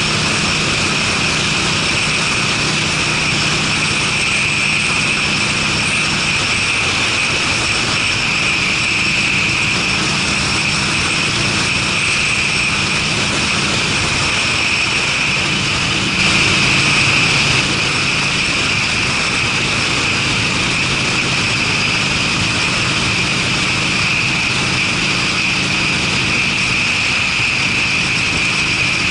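Harley-Davidson Sportster's V-twin running steadily at cruising speed through Screamin' Eagle mufflers, under heavy wind and road noise. The sound swells briefly a little past the middle.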